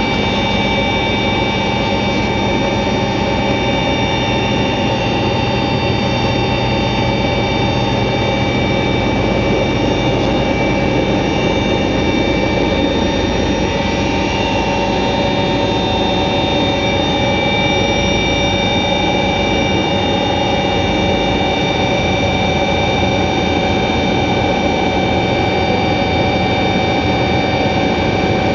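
Helicopter in flight: steady engine and rotor noise with a high, even whine and several held tones that do not change in pitch.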